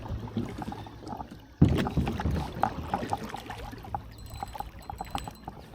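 Handling noise aboard a fishing kayak while a hooked smallmouth bass is brought in: a run of light ticks and water sounds, with one sudden loud knock about a second and a half in.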